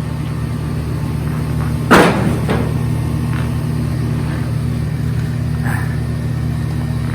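An axe blow striking a log about two seconds in, with a lighter knock just after it, over a steady low hum.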